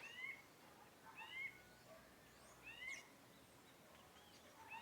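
A bird calling faintly and repeatedly: a short, high, arched call given about every second and a half, over faint outdoor hiss.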